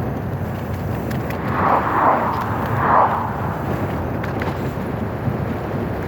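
Steady wind and rolling noise from riding a bike, with three short louder swells between about one and a half and three seconds in.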